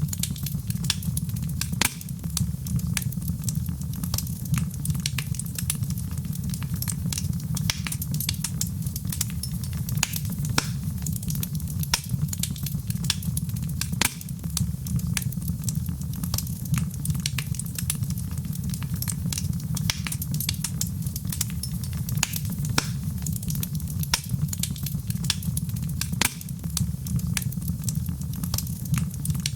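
Wood fire burning in a fireplace: a steady low rumble with constant irregular crackling and sharp pops.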